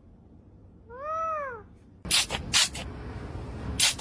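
A small parrot gives one drawn-out call that rises and falls in pitch about a second in. From about two seconds in it lets out a run of loud, harsh screeches.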